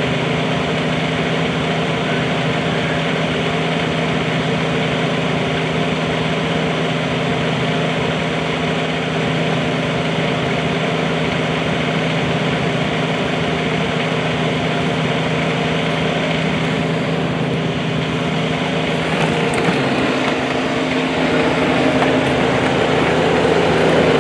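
Bobcat 320 mini excavator's diesel engine running steadily. In the last few seconds the sound thickens and grows slightly louder.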